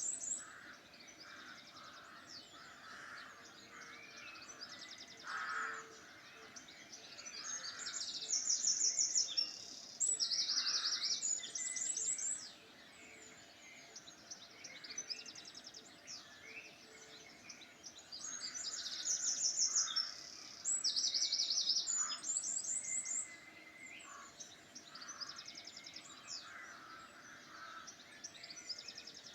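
Wild birds singing: bursts of rapid, high-pitched trills about a second long come every few seconds, over softer chirps and calls.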